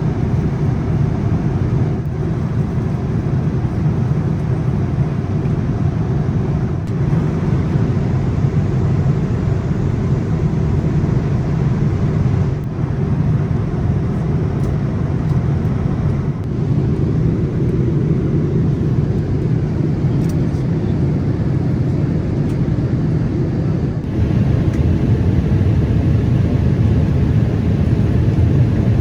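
Steady in-flight cabin noise of a Boeing 787-8 airliner, a low rush of airflow and engine noise, growing slightly louder about 24 seconds in.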